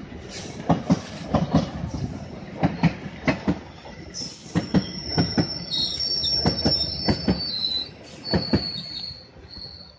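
Passenger train coaches passing close by: steel wheels clacking over the rail joints, often in quick pairs, with a high steady wheel squeal joining about four seconds in. The clacking thins out near the end as the last coaches pass.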